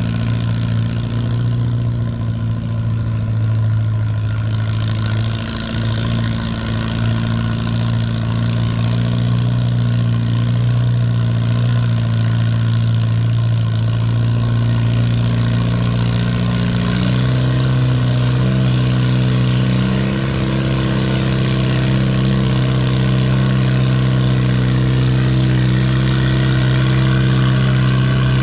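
Small antique tractor engine running hard and steady while pulling a weight sled. Its note steps up slightly in pitch about two-thirds of the way through.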